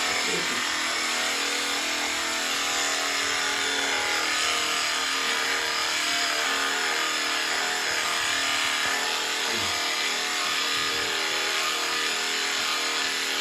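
Electric sheep shears running with a steady motor buzz.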